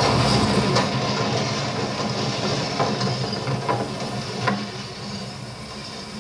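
A train passing over a steel trestle bridge: a dense rumble and hiss with a steady low hum and a few sharp clicks, fading gradually as it goes by.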